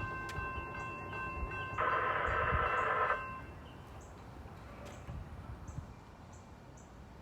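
Freight locomotive horn sounding one short blast about two seconds in, over the low rumble of a passing train. A thin steady ringing tone runs along until just after the blast, and the rumble fades away afterwards.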